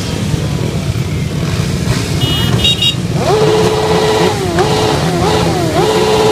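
Motorcycle engines running on the road. From about three seconds in, one bike accelerates away, its engine note climbing and dropping several times as it changes up through the gears.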